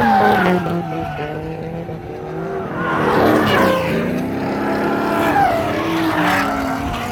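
Drift cars sliding on track: engines revving up and down as the revs fall and climb again, with tyres squealing through the slide about three seconds in.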